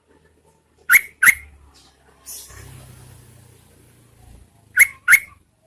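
Yellow-vented bulbul giving two pairs of sharp, quick calls about four seconds apart, with a soft hiss in between. This is a lure recording of a female calling to draw males to answer.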